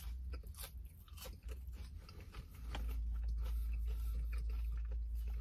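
Close-up crunching and chewing of a crinkle-cut fry: many small crisp crunches in quick succession. A steady low rumble comes in underneath about halfway through.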